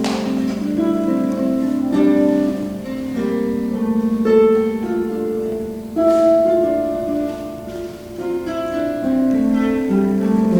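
Harp playing an instrumental passage: a plucked melody over low notes that are left to ring.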